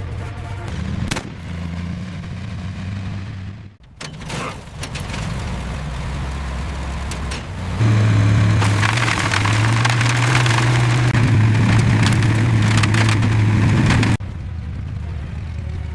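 A heavy vehicle engine running with a steady low drone. The sound breaks off briefly about four seconds in, grows louder from about eight seconds in, and cuts off suddenly near the end.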